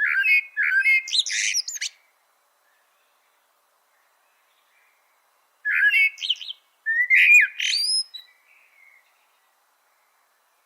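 A songbird singing two short phrases of quick, whistled, sliding notes, the first at the start and the second about six seconds in, with silence between them.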